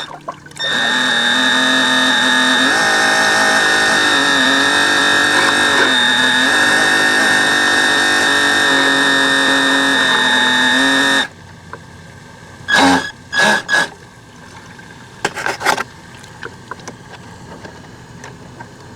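RC model boat motor running with a steady high whine, its lower pitch dipping a few times. It cuts off suddenly about eleven seconds in, followed by a few short knocks.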